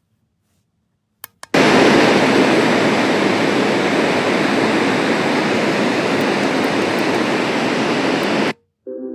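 Two quick button clicks, then a Magicteam sleep-sound machine plays a loud, steady rushing noise for about seven seconds, cutting off suddenly. Just before the end a pitched, musical tone begins as the next sound is selected.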